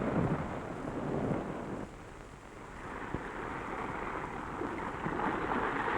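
Sea surf washing on a beach with wind, a steady noise that dips briefly about two seconds in.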